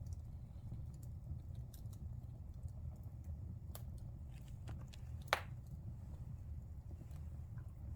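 Fire in a fireplace crackling over a steady low rumble, with scattered sharp ticks and one loud pop about five seconds in.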